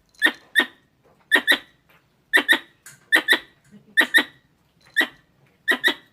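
Squirrel calls: sharp, squeaky double chirps, a pair about once a second, repeated steadily.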